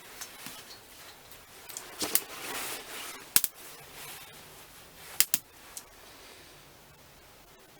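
Burning firewood crackling, with scattered sharp pops over a soft hiss; the loudest pop comes about three and a half seconds in, and a quick pair just after five seconds.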